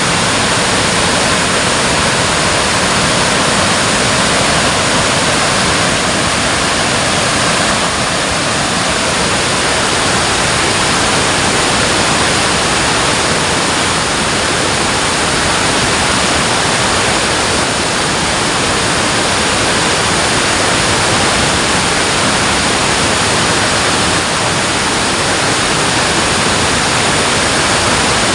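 Water rushing over or through a dam, a loud, steady roar of falling water without a break.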